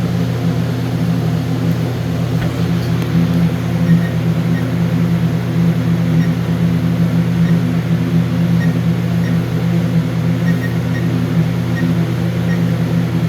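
Steady low mechanical hum from running equipment, with faint short high beeps scattered through it, typical of key presses on an alarm keypad being programmed.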